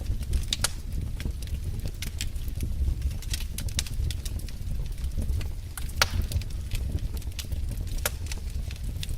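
Wood fire crackling in a fireplace: irregular sharp pops and snaps over a steady low rumble of the flames, with a few louder pops, the strongest about six seconds in.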